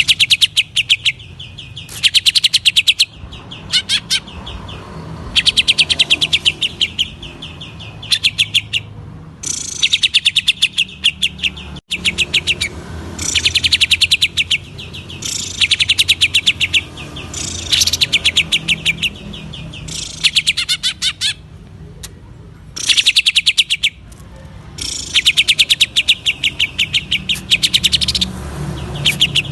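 Green leafbird (cucak ijo) singing in rapid rattling bursts, each a second or so of very fast repeated notes, given one after another with short pauses between them.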